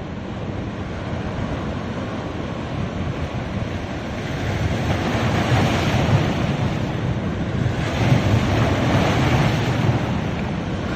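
Ocean surf on a beach: waves washing in as a steady rush, swelling louder twice, about four seconds and about eight seconds in, as waves break.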